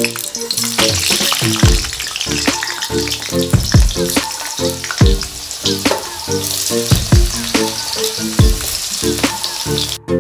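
Potato pieces dropped into hot oil in an aluminium kadhai, frying with a steady sizzle and scattered sharp clicks, stirred with a slotted spoon near the end. Background music with a regular beat plays underneath.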